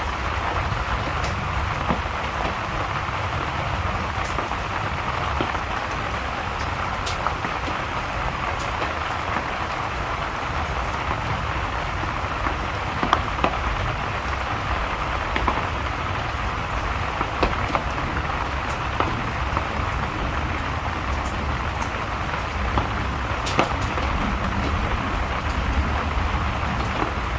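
Steady rain with scattered crackles and pops from a wood fire, over a low rumble.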